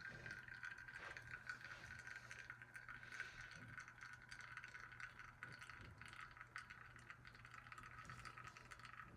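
Near silence: a faint steady hiss with light, irregular ticks as espresso from a Flair 2.0 Pro lever press runs into the cup under held pressure. The flow is smooth, with little sputtering.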